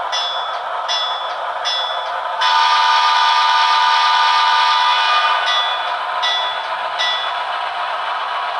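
Broadway Limited Paragon2 sound decoder in an HO scale GE AC6000 model locomotive playing its bell, struck about once every 0.7 seconds, with one long horn blast from about two and a half to five seconds in, over a steady diesel engine sound. The bell stops about seven seconds in.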